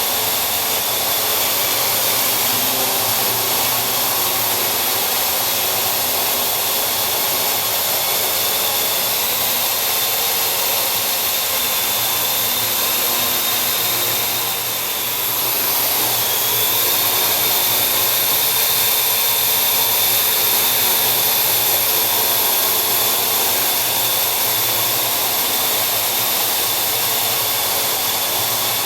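Parrot AR.Drone quadcopter's four electric motors and propellers whirring steadily in flight, with a high whine over a rushing hiss. About halfway through, the sound drops briefly and the whine dips in pitch, then both return.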